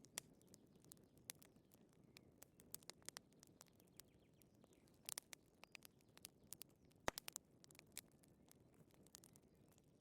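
Wood fire crackling softly in a fireplace: a low hiss with irregular sharp pops and snaps, a few coming in quick clusters.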